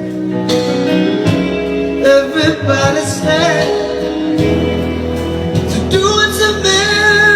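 A man singing long, held notes over instrumental backing.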